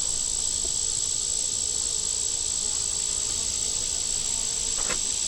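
Steady, high-pitched insect trilling, with a faint low hum of honey bees from the open hive underneath.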